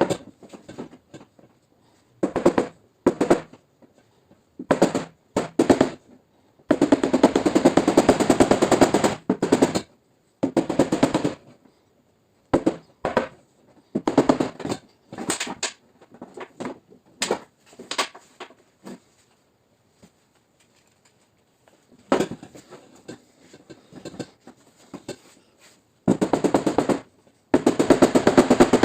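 Rapid bursts of tapping on the sheet metal of a car trunk lid with a paintless-dent-repair knockdown tool, knocking down the high spots around the dent. Some bursts run for a second or more as fast rattling strings of knocks; others are short, with pauses between.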